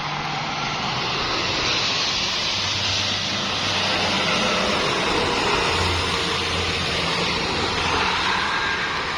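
Steady roar of a truck on the road, with a low engine hum underneath, swelling slightly midway.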